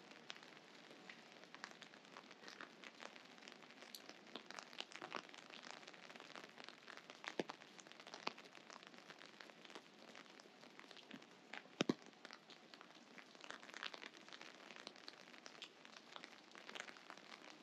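Light rain: a soft hiss with scattered raindrops landing as irregular sharp ticks, and two louder ticks close together about twelve seconds in.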